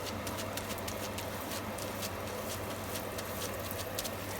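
Hotteok dough sizzling and crackling in hot oil in a cast iron pan on a gas burner, a steady fry with quick irregular pops, over a low steady hum.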